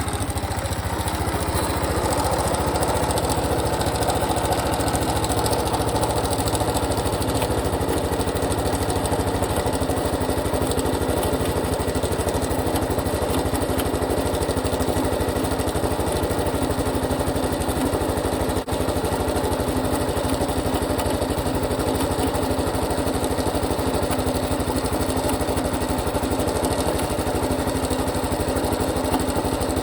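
Honda Super Cub Pro's single-cylinder four-stroke engine idling steadily just after being started; this is the engine whose abnormal noise is being recorded.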